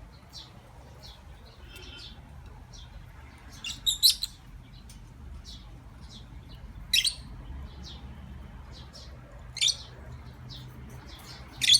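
Lovebird giving short, high chirps, mostly faint, with a few sharp louder ones about four, seven, nine and a half and eleven and a half seconds in, over a faint steady low hum.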